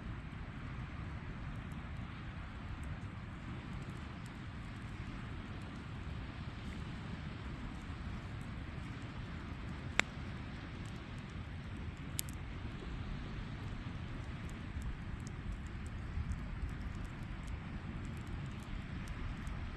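Campfire crackling, with faint scattered ticks and two sharp pops about halfway through, over a steady low rushing noise.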